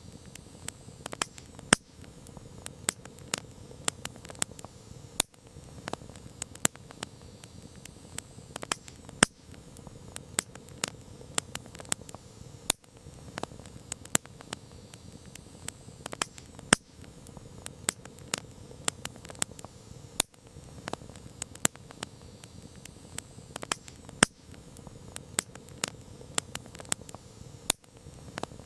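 Wood campfire crackling: irregular sharp pops and snaps, several a second, some much louder than others, over a soft steady hiss of burning.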